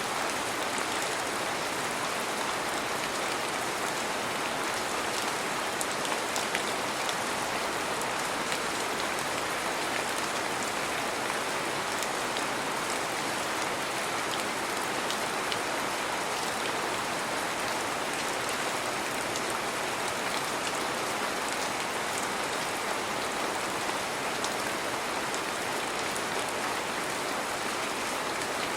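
Heavy rain falling steadily, an even hiss with the fine patter of individual drops.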